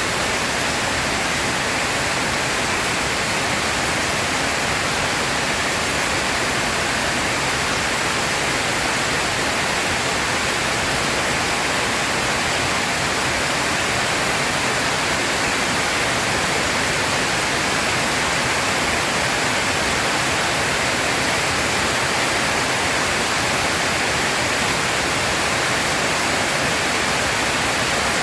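Heavy rain pouring steadily, an even, dense hiss with no thunder and no let-up.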